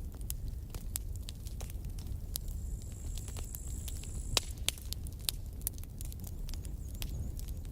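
Campfire burning, with wood crackling and popping in frequent sharp snaps over a steady low rumble of the flames; one louder pop a little past halfway.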